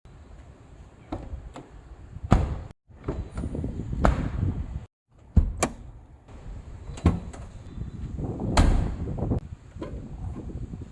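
Maruti Suzuki Alto K10 car doors being opened and shut: about five solid thuds, each with a lighter latch click near it, in a string of short takes cut together.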